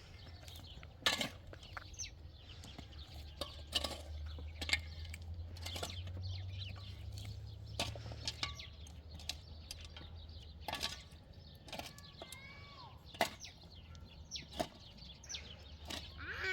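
Birds, likely poultry, giving a few short calls among many scattered sharp clicks and knocks, over a steady low hum.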